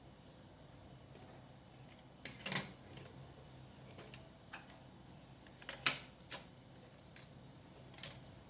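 Scattered sharp clicks and knocks of small hard objects being handled during electrical socket work, loudest about two and a half seconds in and again about six seconds in, over a faint steady hum.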